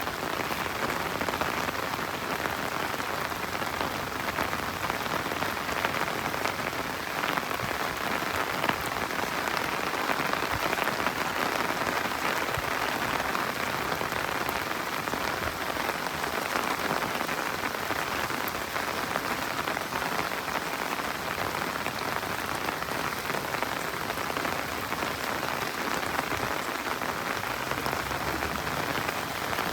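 Steady rain falling, with a dense patter of raindrops on surfaces.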